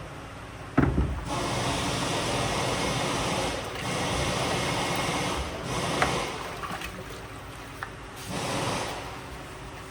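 Compressed air hissing in several bursts of a couple of seconds each, after a sharp knock about a second in.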